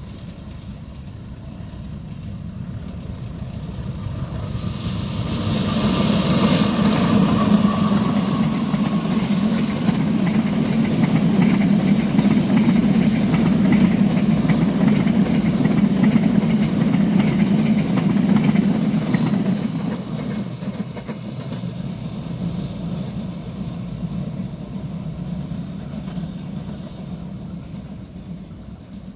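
Diesel train passing. The engine and the wheels on the rails grow louder over the first several seconds, stay loud while it goes by, then fade away.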